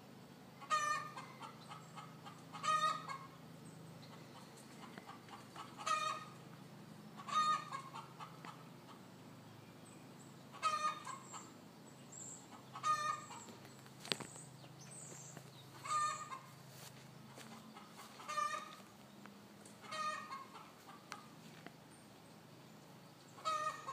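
Chickens clucking: short pitched calls about every two to three seconds, over a faint steady low hum.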